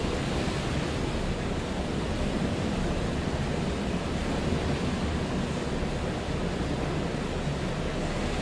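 Hurricane-force wind in the eyewall of a Category 4 hurricane, a steady dense rushing with wind buffeting the microphone.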